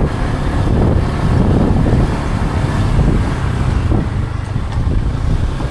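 Steady low rumble of wind buffeting the microphone over a running motor vehicle.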